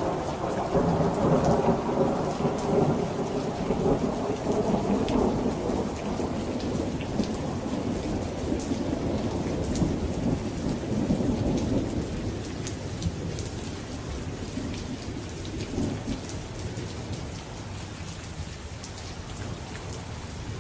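Steady rain with fine drop ticks, under a long rolling rumble of thunder that slowly dies away over the first dozen seconds.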